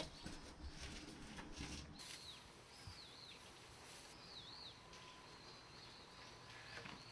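A small bird calling repeatedly outdoors: short high chirps that dip and rise again, about one a second, starting after a sudden change about two seconds in. Before that, faint knocks and low rumbling from handling pots.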